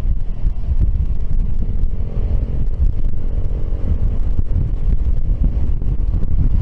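Wind buffeting the microphone while riding a Piaggio X10 maxi-scooter, with the scooter's engine a faint steady drone underneath.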